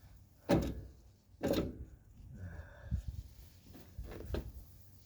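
Strut assembly knocking and scraping against the strut tower as it is wiggled up into place. Two sharp clunks come about a second apart near the start, followed by a few lighter knocks.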